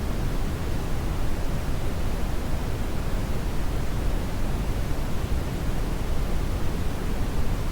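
Steady brown noise: a deep, even rush of noise weighted toward the bass, with no tones or changes.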